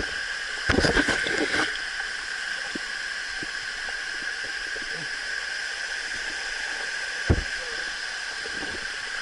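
Steady rush of a waterfall's falling water, with a brief clatter of knocks about a second in and a single thump about seven seconds in.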